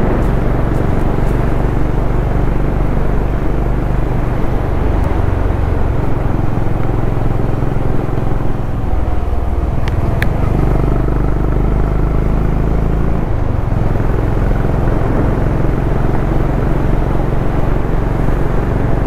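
Motorcycle engine running on the move, its low note shifting a few times as the throttle changes, under a steady rush of wind. A brief click about halfway through.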